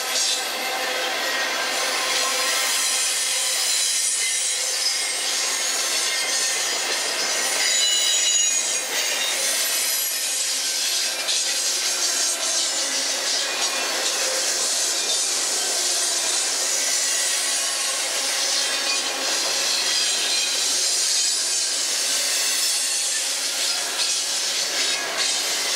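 Double-stack intermodal well cars rolling past, a steady wheel-and-rail roll with high-pitched squealing tones from the wheels on the rails.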